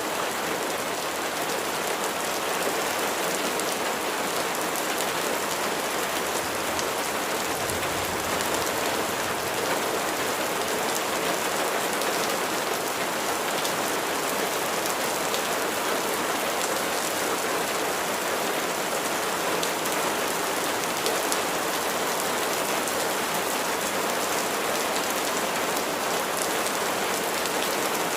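Steady heavy rain, a dense hiss of drops with fine pattering clicks, holding an even level throughout.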